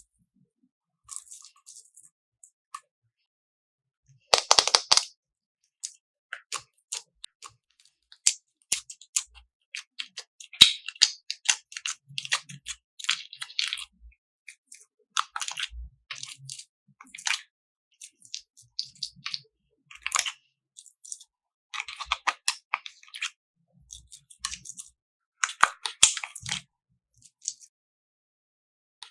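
Slime being handled: an irregular run of sticky squishes, clicks and crackles, with a louder squelch about four seconds in.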